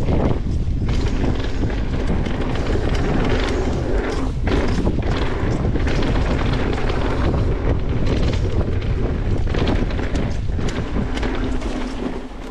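Wind buffeting the microphone and a mountain bike's tyres rolling fast over a rough dirt trail, with frequent short knocks and rattles from the bike over bumps. The noise drops noticeably near the end.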